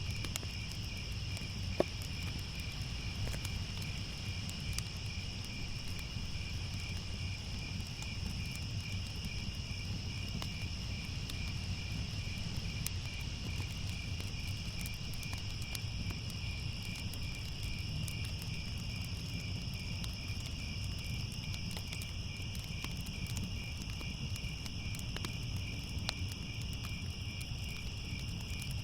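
Crickets chirping steadily in a high, even pulse over a low rumble with scattered faint crackles of a fire, and one sharper pop about two seconds in.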